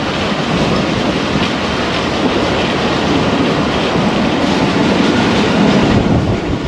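Steady running noise of an express passenger coach travelling at speed: wheels on the rails.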